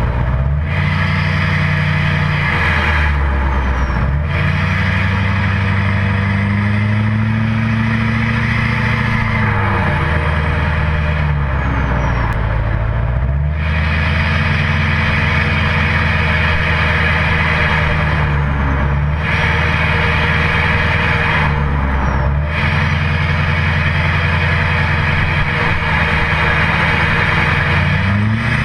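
2008 GMC Sierra's 6.6 L LMM Duramax turbodiesel V8 running through a 4-inch straight pipe with no cat, DPF or muffler. The engine note climbs and drops back several times, with the hissing higher sound cutting out at each dip.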